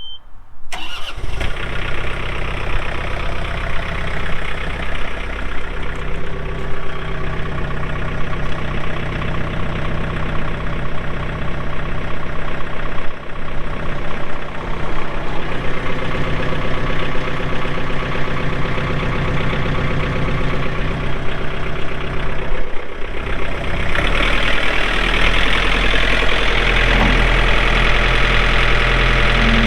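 2022 John Deere 4044M compact tractor's diesel engine running steadily. About three-quarters of the way through it gets louder, with a stronger low rumble.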